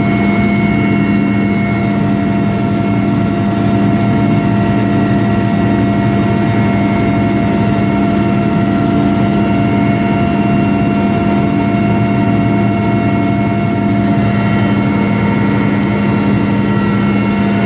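Military helicopter in flight, heard from inside the cabin: a loud, steady drone of engines and rotor with several constant higher tones over a low hum.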